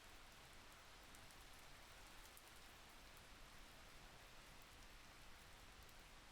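Faint steady rain: an even hiss with scattered light ticks of drops.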